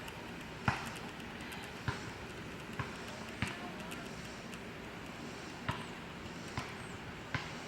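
Squirrel giving short, sharp clicking calls, about seven spread irregularly, over a faint steady outdoor hiss.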